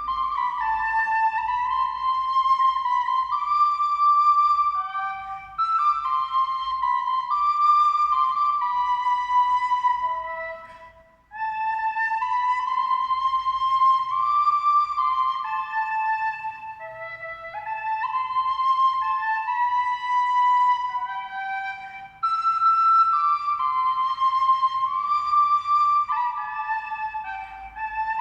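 Music: a single flute-like melody of held notes in a high register, breaking off briefly near the middle before going on.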